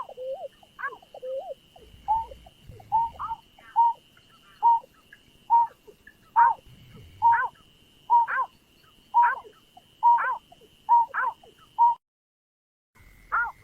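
Greater painted-snipe calling: a long series of short, sliding hooting notes, about one a second. A faint steady high whine runs under them, and there is a break of complete silence for about a second near the end.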